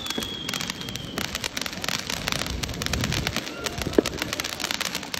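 Rapid, irregular crackling pops, with a thin high whistle that falls slightly and stops about a second in, and one sharper crack about four seconds in.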